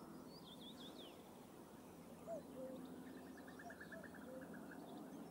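Faint birdsong over quiet open-air background: a few quick chirps near the start, then a fast run of short repeated notes about three seconds in.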